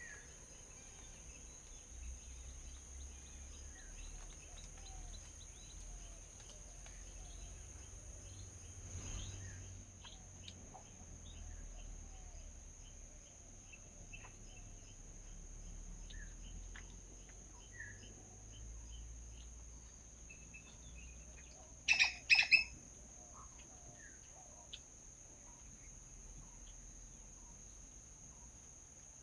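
Small birds chirping and tweeting in short, scattered calls over a steady high-pitched whine and a low rumble. About two-thirds of the way in, two loud, harsh calls come from close by.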